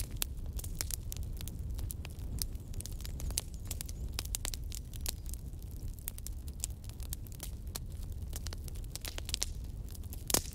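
Fire crackling: frequent sharp pops and snaps over a low steady rumble, with one louder pop near the end.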